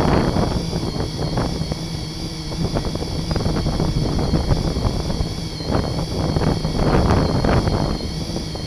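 Five-inch FPV racing quadcopter in flight: a steady high whine from its motors and propellers under heavy wind rush on the microphone.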